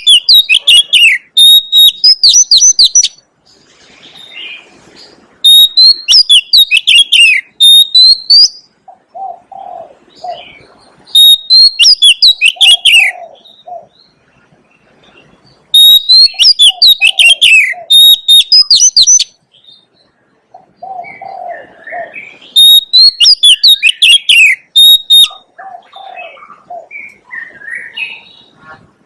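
Oriental magpie-robin singing: five loud phrases of rapid whistles and trills, each about three seconds long and coming roughly every five seconds, with softer, lower notes in the gaps between them.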